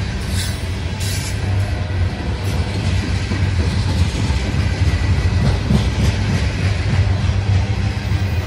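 Loaded coal hopper cars rolling past close by: a steady, heavy low rumble of steel wheels on the rails, with two brief high-pitched sounds in the first second and a half.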